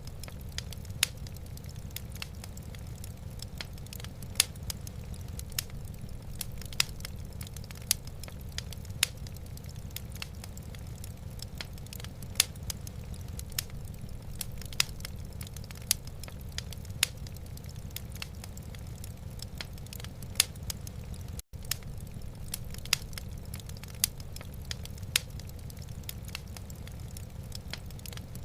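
Wood fire in a fireplace crackling, with sharp irregular pops about once or twice a second over a low, steady rumble. The sound drops out for an instant about 21 seconds in.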